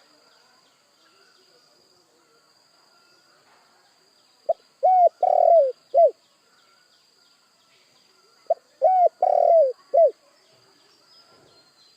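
Spotted dove cooing: two phrases of four or five notes each, the first about four and a half seconds in and the second about four seconds later, over faint background chirping.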